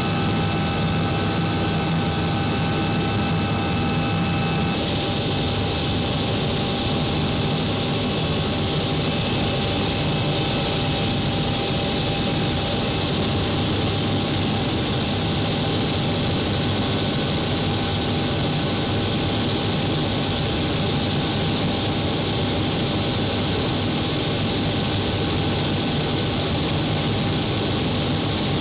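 Helicopter in flight heard from inside the cabin: steady turbine and rotor noise with a constant whine. About five seconds in, a few of the higher whine tones drop out and a brighter hiss comes up.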